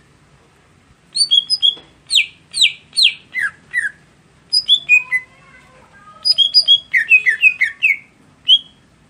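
Greater green leafbird (cucak hijau) singing: phrases of short, sharp whistled notes, many sliding downward, broken by brief pauses.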